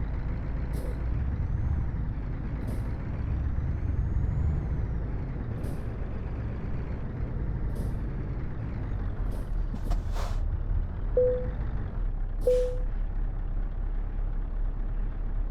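Scania R730 truck's V8 diesel running with a steady low rumble, with several short hisses of air at uneven intervals. Two short beeps near the end.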